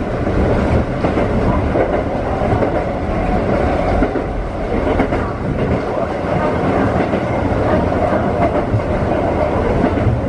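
Electric train running along single track, heard from inside the driver's cab: a steady rumble of wheels on rail and running gear.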